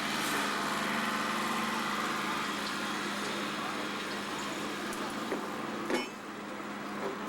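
Tractor engine running steadily amid a constant hiss, with a short sharp knock about six seconds in.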